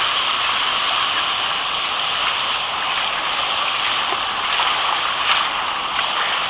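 Rushing whitewater of the Durance river: a steady hiss of fast-flowing rapids.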